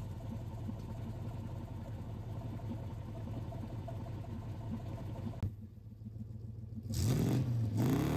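Chevy Tahoe V8 exhaust idling steadily, then after a cut about five and a half seconds in, the engine is revved, its pitch rising and falling back, louder than the idle.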